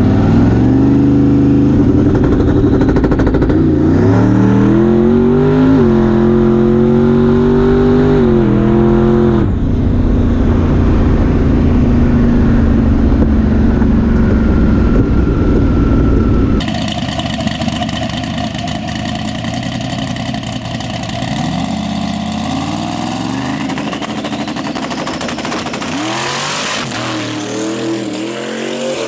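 Twin-turbo big-block V8 of a drag-racing rat rod running hard under acceleration, its pitch climbing in steps and then dropping back to a steadier note. About two thirds of the way through, the sound changes abruptly to a quieter engine, with revs rising again near the end.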